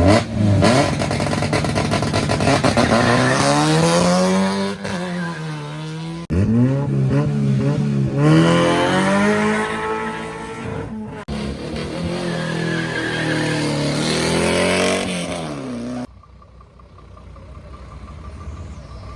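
Race car engine accelerating hard up the hill, its pitch climbing and dropping back at each of three quick upshifts. Near the end it cuts off suddenly, leaving a much quieter background.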